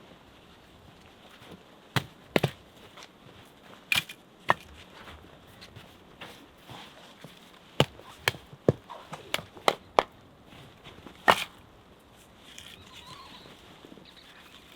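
Irregular sharp knocks of hand tools striking wood, about a dozen in all, single or in quick pairs, with a close cluster a little past the middle.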